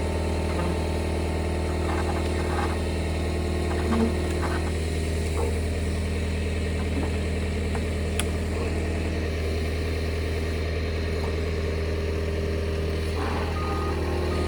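John Deere 325G compact track loader's diesel engine running steadily with a deep, even hum. A couple of faint knocks sound over it.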